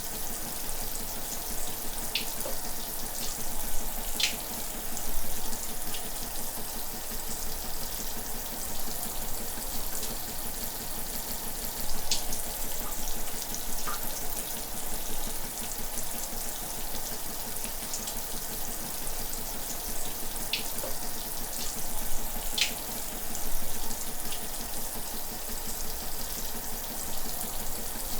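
Running shower water: a steady hiss of spray, with scattered small splashes and drips.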